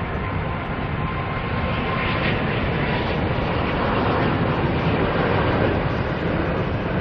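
Jet airliner engines, a loud steady rushing noise that swells a little in the middle and eases near the end. A faint high whine fades out about two seconds in.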